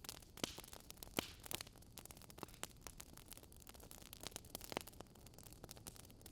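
Wood fire crackling: irregular sharp pops and snaps from burning logs over a faint steady hiss, with a few louder pops among them.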